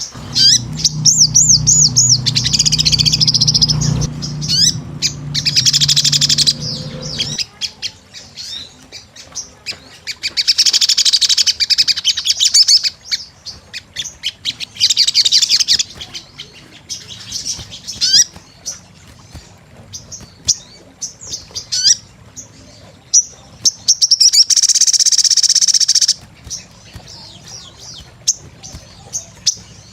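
Sogon sunbird singing vigorously: high, fast trilling phrases lasting a second or two, repeated several times between sharp, high chip notes. A low hum runs under the first seven seconds or so.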